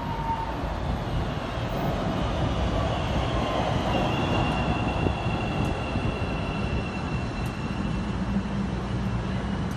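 CTA 5000-series rapid-transit train running on the track, a steady rumble of wheels on rail with a high steady squeal or whine that rises about four seconds in and fades near the end.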